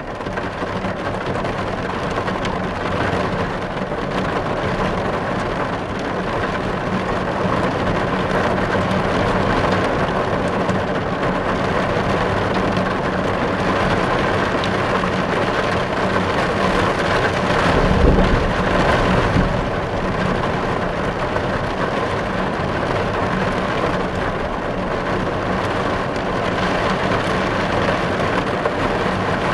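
Heavy rain drumming steadily on a car's windows and roof, heard from inside the cabin. About two-thirds of the way through, a brief low rumble swells and fades.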